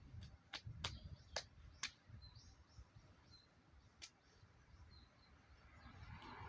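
Faint background with small birds chirping and a low rumble, broken by a quick run of about five sharp clicks in the first two seconds and one more about four seconds in.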